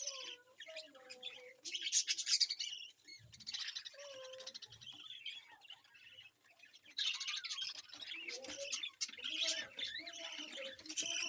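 Budgerigars chirping and chattering, with short squawks mixed into a busy run of warbling calls.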